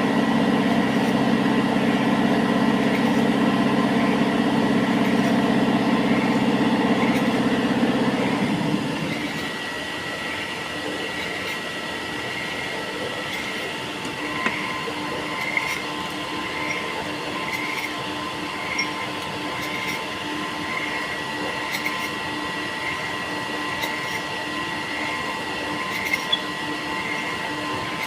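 An electric drill motor runs steadily with a low hum, then winds down about eight or nine seconds in. A quieter high whine is left, with a faint regular tick repeating a little under twice a second.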